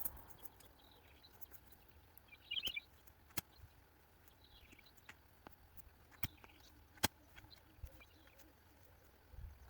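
Faint bird chirps, short and scattered, with a few sharp isolated clicks in between.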